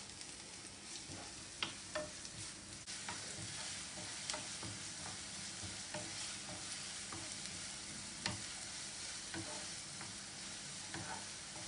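Finely chopped onions sizzling steadily as they fry in hot sunflower oil and ghee, with scattered light clicks of stirring in the pan.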